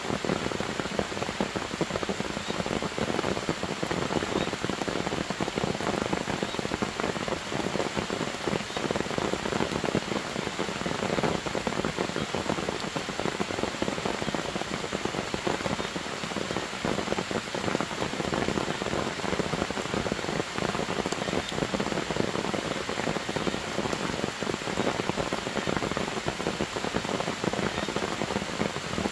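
Steady rain falling on forest leaves and grass, a dense, even patter of drops that does not let up.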